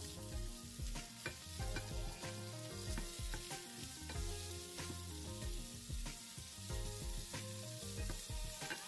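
Salted fish pieces with onion and chilli frying in oil in a nonstick pan, sizzling as a wooden spoon stirs them. Soft background music with a steady beat plays underneath.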